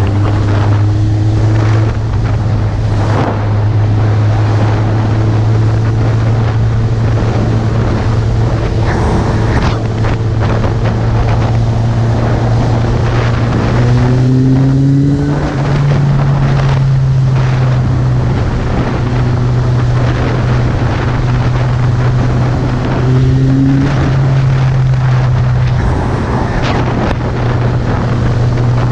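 Suzuki GSX650F inline-four motorcycle engine running at a steady cruise under heavy wind noise on the microphone. The engine note rises in pitch about halfway through and drops back near the end.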